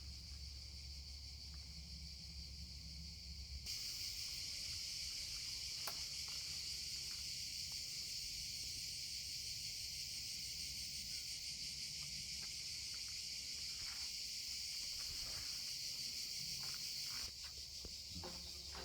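Steady high-pitched insect buzz that swells louder about four seconds in and drops back near the end, with a few faint clicks.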